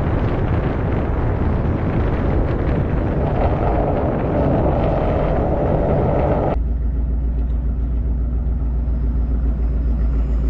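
Car engine and exhaust fitted with catless headers, running hard with a dense, loud rush of noise over a low drone. About six and a half seconds in, the noise cuts off abruptly to a steadier, lower engine drone.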